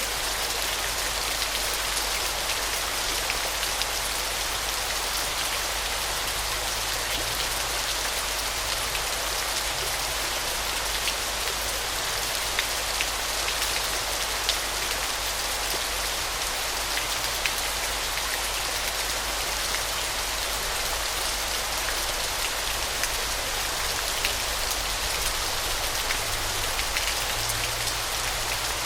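Waterfall: a steady, even hiss of falling and splashing water, mostly high-pitched with little low rumble, sprinkled with small sharp droplet ticks.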